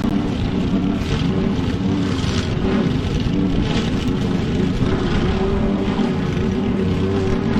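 Petrol lawn mower engine running steadily under load, cutting thick wet grass, with a hiss of cut grass rising and falling every second or so.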